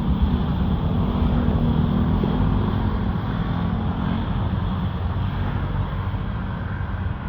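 Jet engines of an Airbus A330-343 running: a steady, loud low rumble with hiss above it that eases slightly toward the end.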